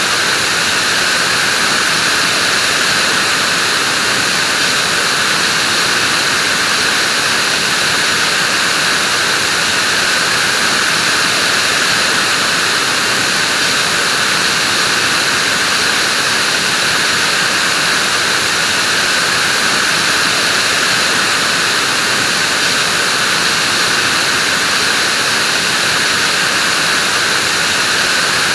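Vacuum cleaner running steadily: a continuous, unchanging whooshing hiss of its motor and airflow.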